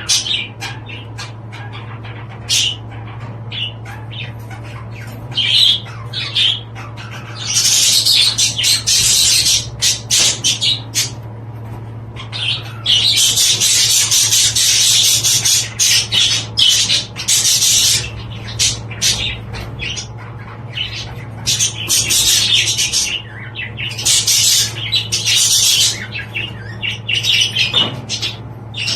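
Budgerigars chattering and squawking in long, busy stretches broken by short lulls, over a steady low hum.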